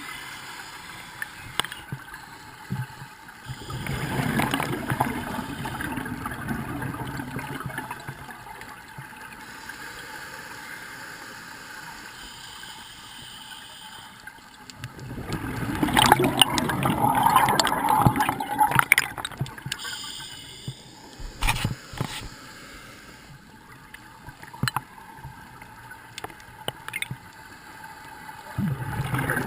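Scuba diver breathing through a regulator underwater: bubbling gurgles of exhaled air come about every twelve seconds, three times, with quieter hissing between them.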